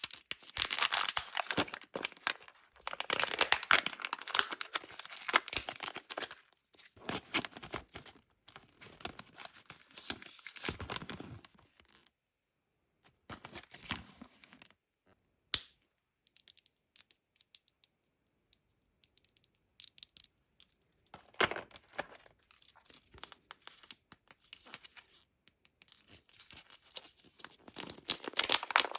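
Kinder Joy egg's foil wrapper being torn open and crinkled in long crackly bursts, then a quieter stretch with a few sharp plastic clicks, and more crinkling near the end.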